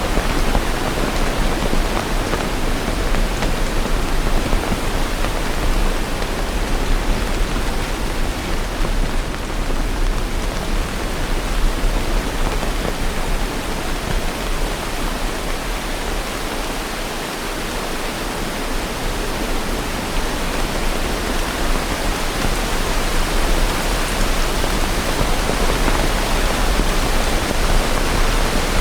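Steady rain, an even hiss of rainfall with no distinct drops or thunder, dipping slightly in level about halfway through.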